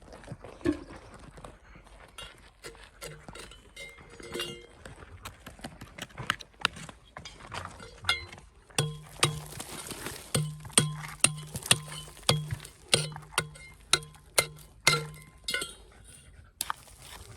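A metal tool striking rock, clinking and knocking. The strikes come irregularly at first, then settle into a steady run of about two ringing strikes a second from about nine seconds in until about fifteen seconds in.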